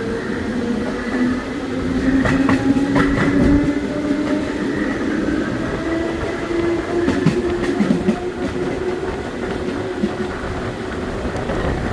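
Série 900 electric metro train running between stations: a motor whine that slowly shifts in pitch over the rumble of the wheels, with sharp clicks as the wheels pass rail joints, in two short runs.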